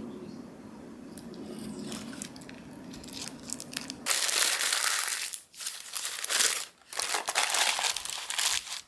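Packaging being crinkled and handled in three loud stretches starting about halfway in, over a low steady hum.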